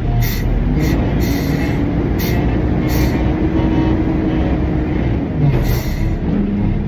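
Front-load garbage truck's diesel engine running while the truck moves, a heavy low rumble with a steady whine through the middle and short bursts of hiss every second or so.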